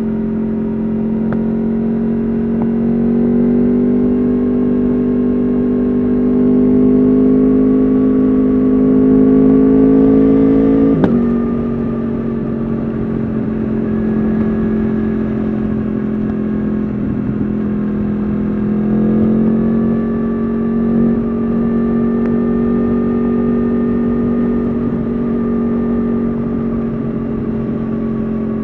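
Yamaha R1's crossplane inline-four through an Akrapovič exhaust, running under steady throttle at moderate revs. The note climbs slowly, then drops at once with a sharp click about eleven seconds in, as on an upshift, and settles back into a steady cruise.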